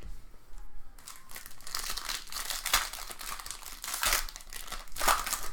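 Card pack wrapper being crinkled and torn open, a rustling with several sharp louder crackles.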